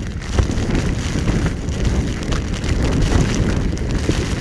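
Strong storm wind blowing hard over the microphone, with heavy rain. A loud, steady rush, deepest in the low end, with small irregular spatters throughout.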